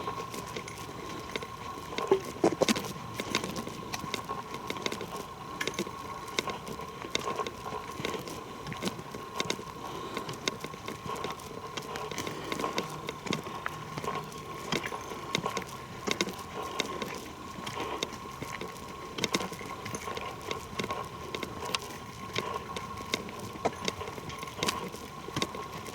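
Footsteps on a forest trail: an uneven run of crackling, crunching steps with no clear pause.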